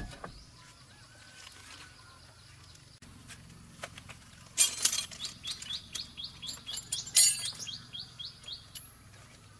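A small bird calling a quick series of short, high, repeated notes, about three a second, from about halfway in until near the end. Two loud, sharp noises break in, one as the calls begin and one about two and a half seconds later.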